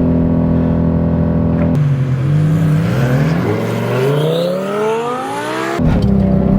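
Porsche 911 Turbo S twin-turbo flat-six held at steady high revs on launch control. About two seconds in the revs drop as the car launches, then climb steadily under full acceleration, with an upshift near the end.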